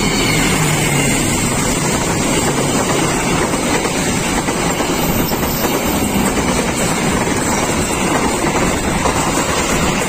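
Diesel locomotive and passenger coaches passing close by, a loud steady rush of wheels on the rails that holds without a break.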